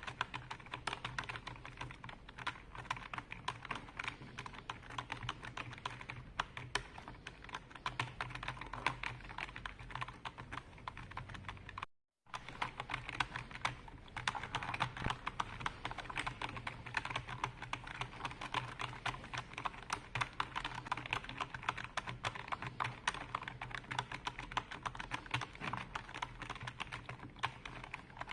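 Continuous fast typing on a computer keyboard: a dense, uneven stream of key clicks. The sound cuts out completely for a moment about halfway through, then the typing carries on.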